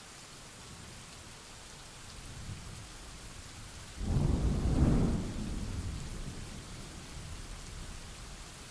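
Steady rain hiss with a clap of thunder: a low rumble builds, then breaks into a sudden loud crack about four seconds in and rolls away over the following seconds.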